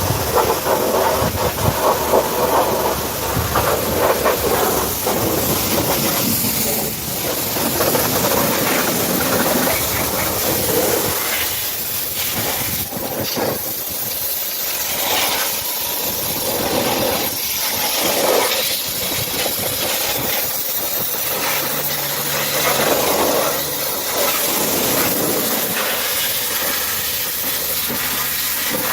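High-pressure water spray from a pressure washer lance, hissing steadily and changing in tone as the jet sweeps across the truck.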